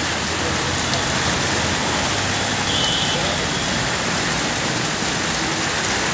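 Heavy rain falling on a waterlogged paved road and its puddles, a steady hiss.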